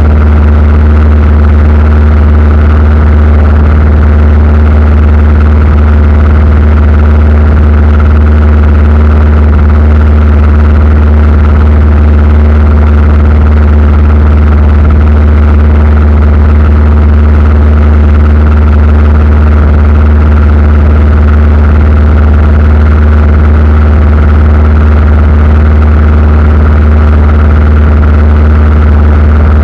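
Aircraft engine running steadily, a loud unchanging drone with a strong low hum.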